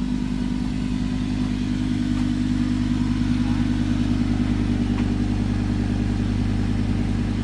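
Lamborghini Huracán Spyder LP610-4's V10 engine running steadily at an even, low pitch, with no revving.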